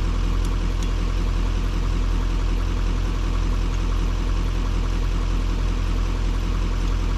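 Chevy Duramax diesel pickup engine idling steadily, a constant low hum.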